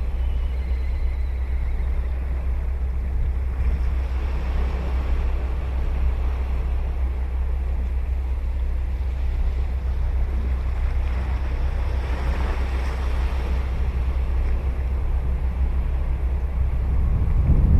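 Ocean waves breaking and washing up a sandy beach, the surf swelling about four seconds in and again about twelve seconds in, over a steady low rumble of wind on the microphone.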